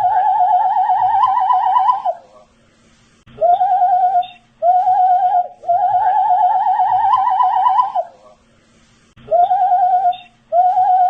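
A man whistling by mouth, repeating one short phrase: two brief notes, then a long wavering note that climbs a little, then a pause of about a second before it starts again.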